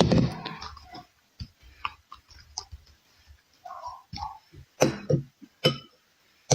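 Close-up eating sounds: chewing and smacking in irregular bursts, with sharp clicks, louder at the start and twice near the end.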